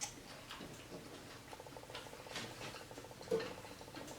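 Faint close-up eating sounds: small wet clicks and ticks of chewing fried fish, with a brief low hum from the eater about three seconds in.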